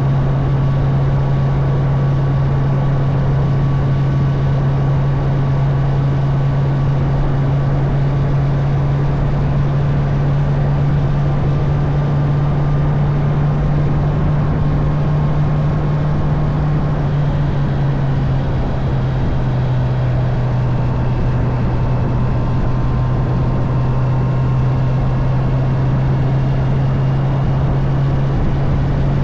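Honda CB650R's inline-four engine running steadily at cruising speed over a constant rush of wind and road noise, its note dropping slightly about two-thirds of the way through.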